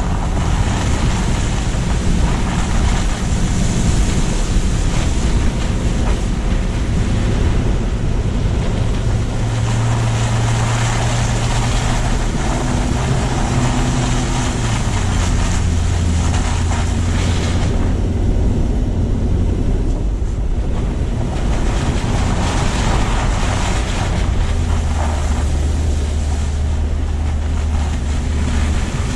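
A car driving on post-snowstorm city streets, picked up by a low-mounted camera: steady road and tyre noise with wind buffeting the microphone. Underneath is a low drone that drops in pitch a couple of times. The higher hiss eases briefly about two-thirds of the way through.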